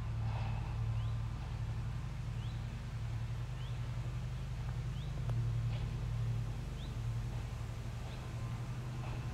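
A bird repeating a short, high, rising chirp about once a second over a steady low hum.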